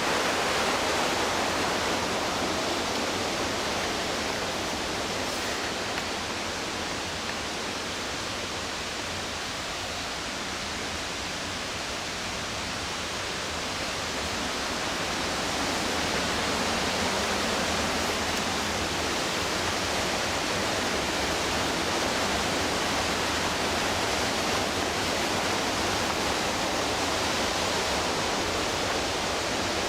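Whitewater of the McKenzie River rushing steadily, easing slightly for a few seconds in the middle, then louder again from about halfway.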